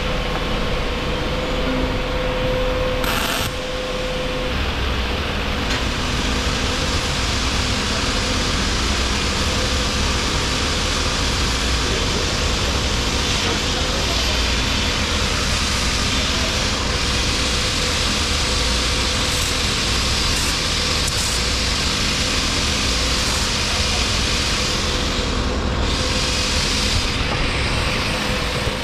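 Welding on the seams of a new boat fuel tank as its sides are joined on: a continuous, steady hiss. A brief sharp click comes about three seconds in.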